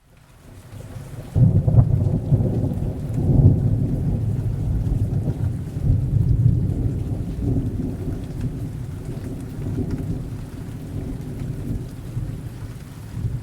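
Thunder rolling over steady rain. The rumble swells in the first second or so, breaks loud about a second and a half in, then slowly dies away.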